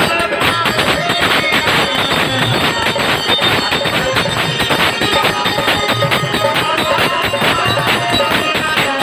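Purvi folk music playing, with a fast, steady beat of hand percussion and jingles under pitched melody instruments.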